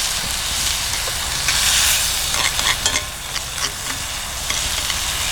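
Food frying in a pan over a campfire, sizzling steadily with small crackles and pops.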